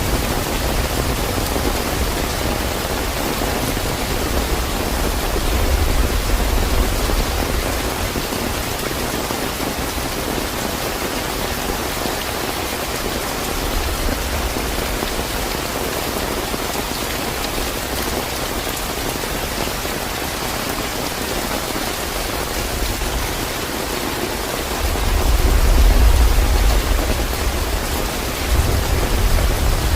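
Steady, fairly heavy rain falling on a surface, an even hiss of drops. Low rumbles of distant thunder swell under it a few times, loudest about 25 seconds in.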